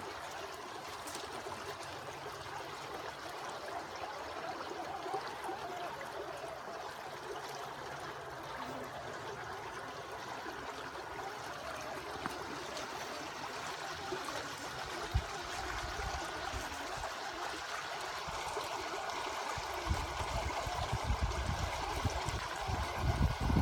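River water running steadily over rocks. Near the end a faint steady high whine comes in, and low rumbling builds louder.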